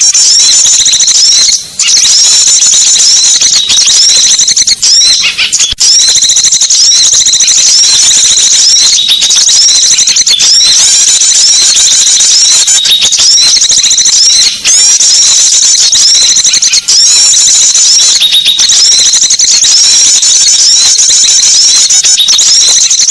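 Small-bird lure call: a loud, dense, high-pitched mass of rapid chirps and twitters that runs almost without pause. It is broken by a few brief gaps.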